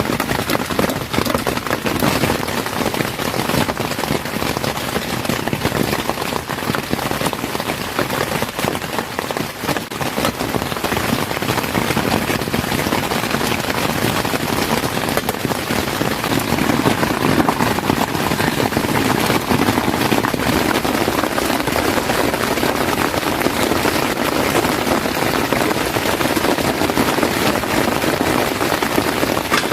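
Heavy rain falling steadily, a dense patter of many drops hitting a surface, growing a little fuller about halfway through.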